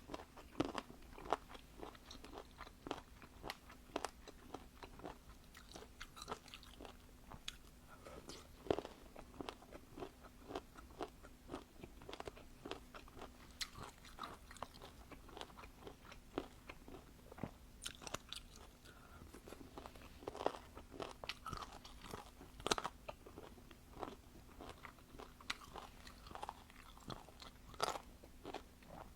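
Close-up eating sounds: a person biting and chewing crunchy food, with irregular sharp crunches and mouth sounds, over a faint steady hum.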